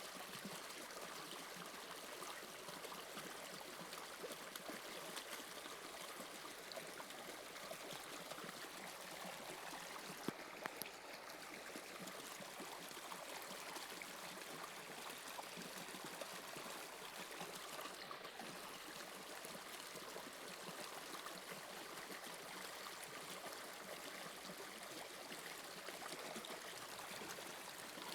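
Subway train running, a steady rushing hiss with no rhythm, and a single sharp click about ten seconds in.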